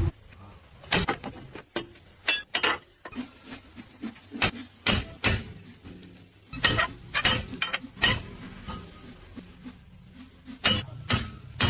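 Irregular sharp knocks and clanks of hand tools on metal parts, a dozen or so spread out with pauses between them.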